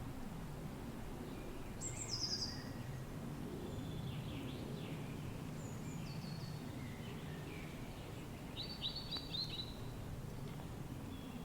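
Several birds chirping and calling over a steady low rush of wind. About two seconds in there is a quick, high, falling call, and near the end a short run of sharp, repeated notes.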